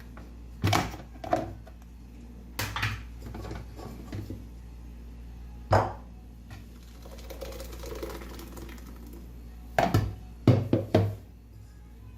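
Utensils, bowls and a strainer clunking and knocking against each other while blended corn is strained. About ten separate knocks come in loose clusters, the loudest group near the end.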